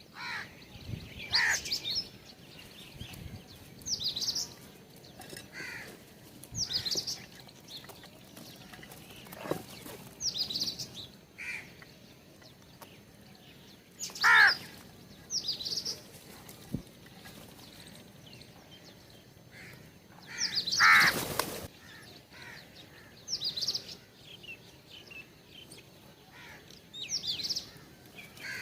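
Wild birds calling at a feeder: short high chirps repeated every second or two. Two louder, lower, harsher calls come about fourteen and twenty-one seconds in.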